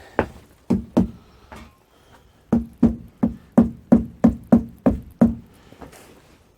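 A series of sharp knocks: three scattered ones, then a steady run of about nine at roughly three a second, each with a short ring.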